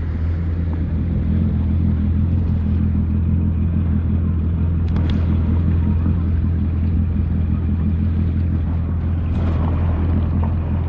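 An engine running at a steady speed, a low even hum, with two brief clicks about five and nine and a half seconds in.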